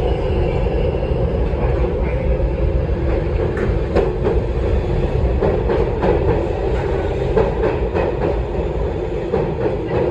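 New York City subway train running into the station: a steady loud rumble of wheels on rail, with clicks of the wheels over rail joints starting about a third of the way in.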